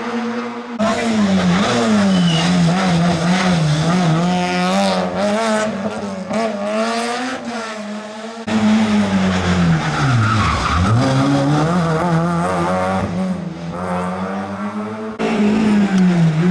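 Rally car engines running hard on a special stage, pitch swinging up and down with throttle and gear changes. Three different cars are heard one after another, each cut in abruptly. In the middle of the second car the engine drops right down and then climbs again.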